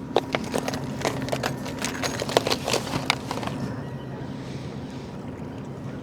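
A quick, irregular run of clicks and knocks for about three seconds, over a steady low hum.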